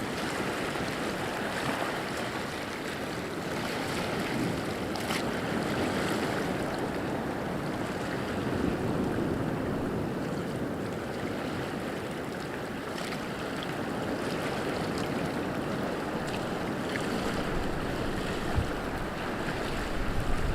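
Water rushing and washing steadily, swelling and easing slowly, with a few faint clicks and a brief knock near the end.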